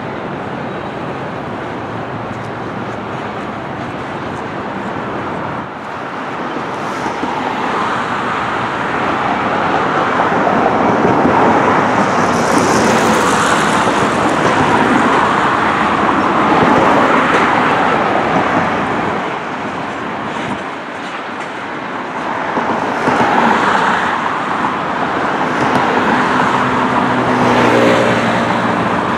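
Freight train of tank cars rolling past steadily, mixed with road traffic passing close by. The traffic noise swells louder through the middle and again near the end, where an engine hum from a road vehicle comes in.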